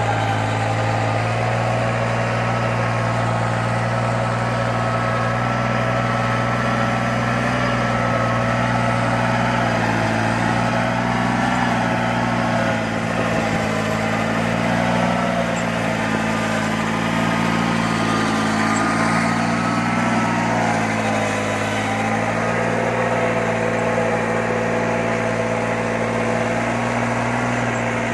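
New Holland tractor's diesel engine running steadily, its pitch wavering slightly about twenty seconds in.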